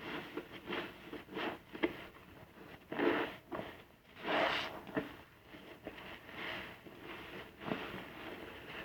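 A soapy car-wash sponge being squeezed and rubbed, making wet squishing and scrubbing strokes at an uneven pace, the loudest about three and four and a half seconds in.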